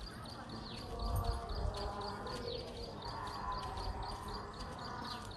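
Birds chirping rapidly in short, high, falling notes over a faint murmur of distant voices, with low gusts of wind on the microphone about a second in.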